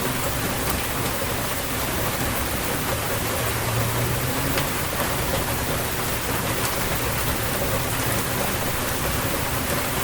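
Steady heavy rain falling and pattering on surfaces, with occasional sharper drop ticks standing out from the hiss.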